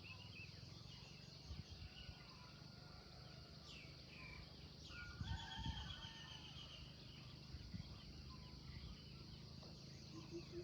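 Songbirds chirping and twittering in short calls, with a longer trilled phrase about halfway through, over a faint steady background hiss.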